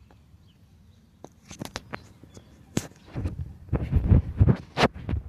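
Footsteps with handling knocks: a run of sharp clicks, then heavier thumps from about three seconds in.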